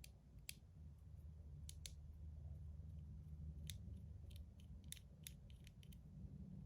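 Faint, scattered light clicks and taps of small metal parts of an EDC fidget slider being handled and worked apart by hand, over a low steady hum.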